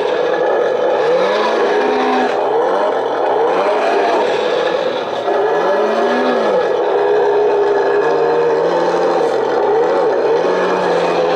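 Simulated diesel engine sound from an RC truck's engine sound unit, rising and falling again and again in short revs as it follows the throttle, then holding at a steady pitch with a couple of quick dips in the second half.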